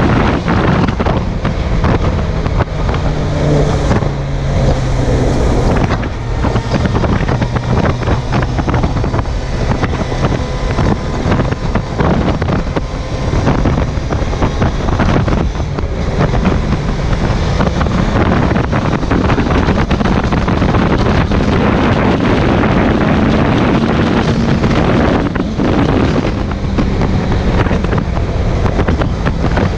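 Suzuki GSX750F inline-four engine running at road speed, with heavy wind rushing over the chest-mounted camera's microphone. The engine note steps down a few seconds in, then climbs gradually later on before dropping again.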